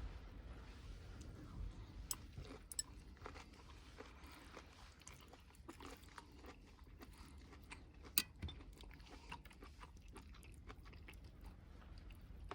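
Faint crunching and chewing with scattered small clicks, the sharpest about eight seconds in, over a steady low rumble.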